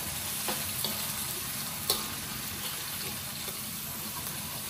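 Onions, ginger and lemongrass sizzling in hot oil in a steel wok, stirred with a metal spatula. A steady hiss with a few light clicks and scrapes of the spatula on the pan, the sharpest about two seconds in.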